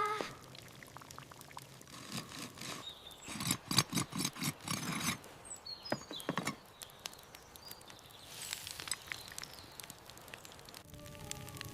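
Liquid being poured in a run of quick glugs about three to five seconds in, with light clinks and knocks of kitchenware around it.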